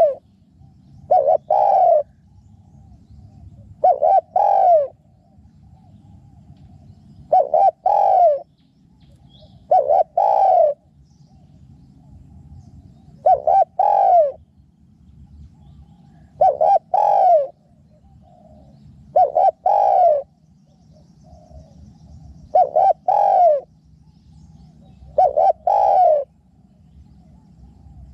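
Spotted dove cooing, a two-part call repeated about nine times, every two to three seconds, over a faint low rumble.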